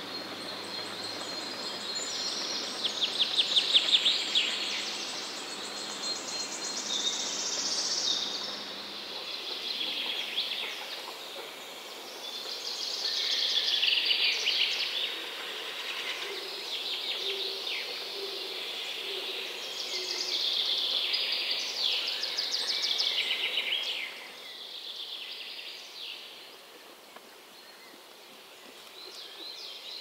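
Birds calling and singing in a long run of high phrases and fast trills, the loudest trill about four seconds in, growing quieter near the end.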